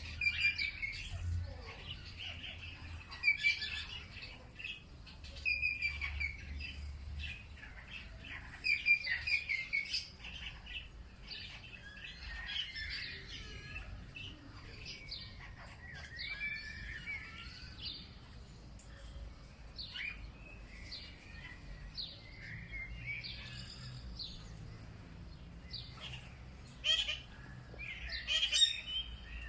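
Several wild birds chirping and singing, with short overlapping calls and trills throughout, over a faint low rumble.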